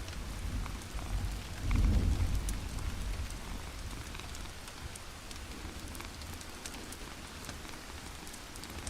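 Ambient soundscape: a steady hiss dotted with small sharp crackles, and a low rumble that swells about two seconds in and then fades.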